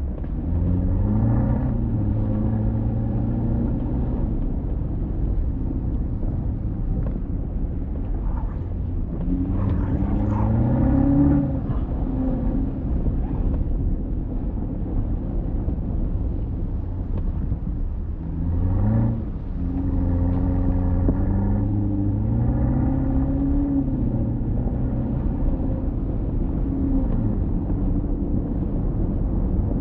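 Alpina XB7's twin-turbo V8 pulling the car along, its pitch climbing under acceleration and dropping back at gear changes several times, over a steady low road and tyre rumble.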